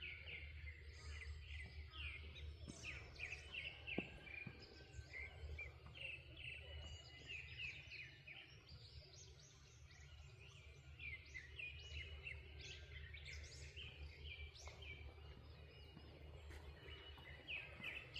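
Many small birds chirping and singing together, short overlapping calls and trills throughout, over a low steady rumble.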